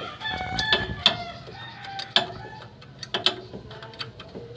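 Metal hand tools clinking and clicking against engine parts in a few sharp knocks, with chickens clucking in the background.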